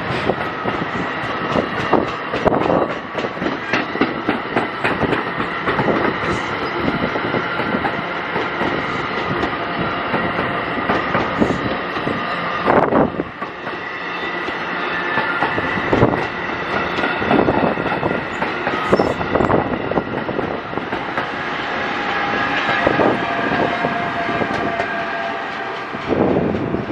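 New Jersey Transit Multilevel passenger train passing close by, a loud, steady run of wheel and rail noise with frequent clicks over the rail joints and steady whining tones.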